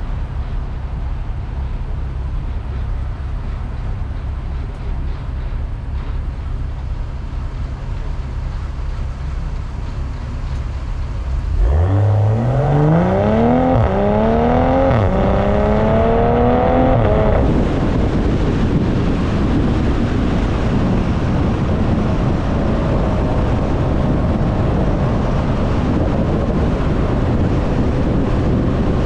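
BMW M340i's turbocharged 3.0-litre inline-six exhaust heard from behind the car. It drones low while cruising. About twelve seconds in it rises sharply under hard acceleration, drops once with an upshift, then keeps climbing until the throttle is lifted about six seconds later. Heavy wind noise on the microphone covers the rest.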